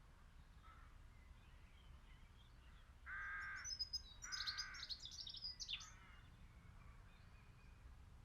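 A bird calling twice, two drawn-out caws about a second apart, with high chirps of smaller birds around them. The rest is near silence.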